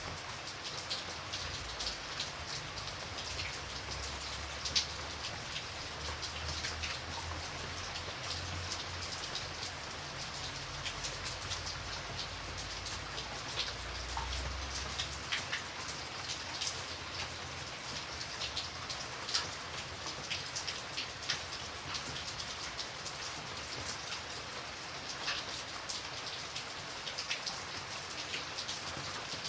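Steady rain, with many close individual drops heard as sharp ticks over the hiss. A low rumble beneath it stops about halfway through.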